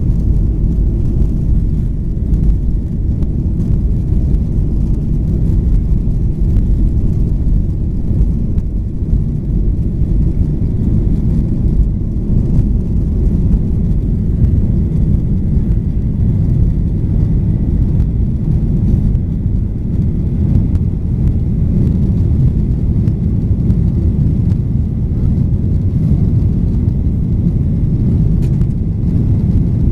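Steady low rumble of a Boeing 737-800's CFM56-7B jet engines and airflow, heard inside the passenger cabin.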